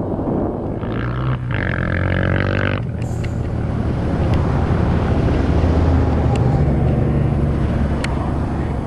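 Motor vehicle engine running steadily under a rushing noise, with a higher, steadier engine tone standing out from about one to three seconds in.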